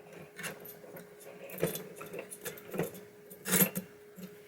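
Small metal parts of a pinball drop target assembly clicking and rattling as they are handled, in a few separate bursts, the loudest near the end. A faint steady hum runs underneath.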